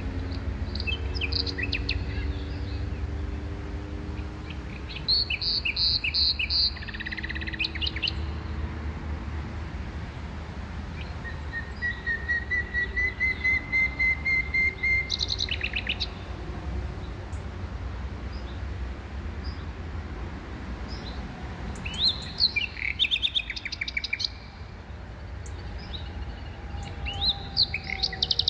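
Small birds chirping in short bursts of quick repeated notes, with one longer rising trill around the middle, over a steady low rumble.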